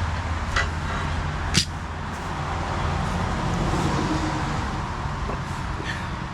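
Steady machine noise with a low hum, broken by a few sharp clicks, cutting off abruptly near the end.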